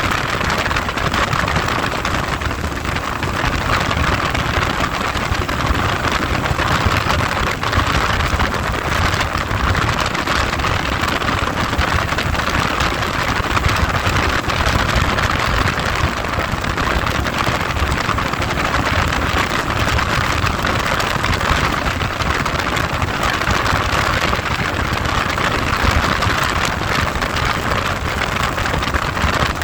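Heavy wind noise buffeting the microphone on a moving ride, a loud steady rush with the vehicle running underneath.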